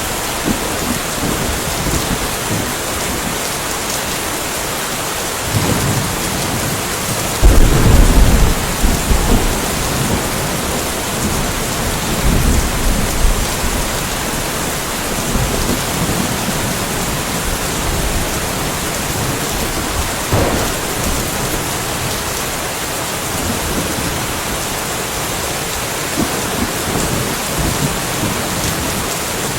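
Steady rain falling in a thunderstorm, with thunder rumbling over it several times. The loudest peal breaks suddenly about a quarter of the way in, and weaker rumbles and a short crack come later.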